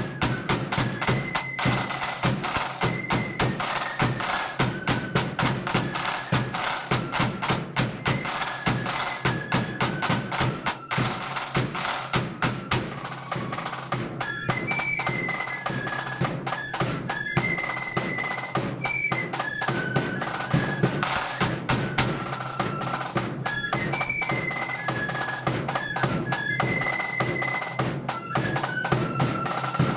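Marching flute band playing a tune: flutes carry a high, stepping melody over rapid snare drum rolls and beats and a bass drum.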